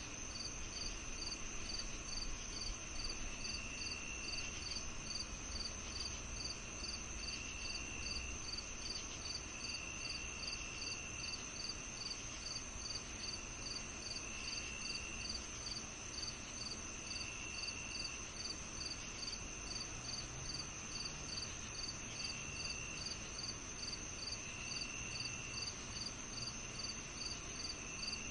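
Crickets and other insects singing together on a summer evening. There is one steady high trill, a regular chirp about twice a second, and a lower trill that comes and goes every few seconds.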